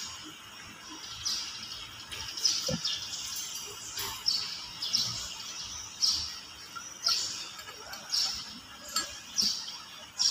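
A small bird chirping over and over, short high chirps about once a second.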